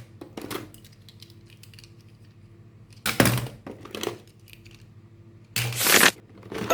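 Clicks and clatter of small plastic toy cars being handled, with a short loud rustling burst about three seconds in and a longer one near the end.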